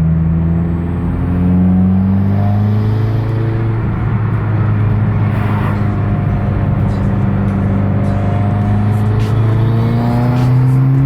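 Vehicle engine running while driving, its pitch stepping and gliding upward as it accelerates.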